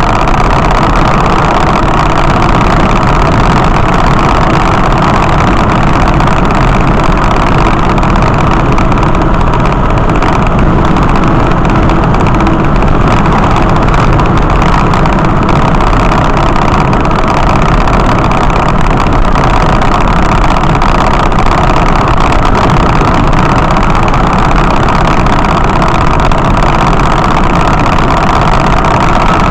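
Motor vehicle running steadily: a constant, loud noise of engine and road with no changes.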